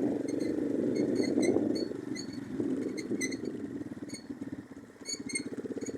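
Orion-100 moped engine running as it rides along a rough track, with faint high ticks over it. The engine quietens for a moment about four to five seconds in, then runs on steadily.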